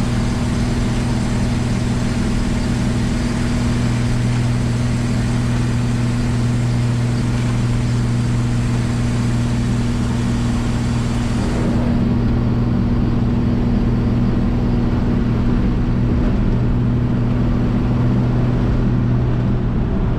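Inside the cab of a 1965 Chevrolet C10 pickup at highway speed: the inline-six runs with a steady low drone under road and wind noise. The high hiss of the wind and road noise drops off about twelve seconds in.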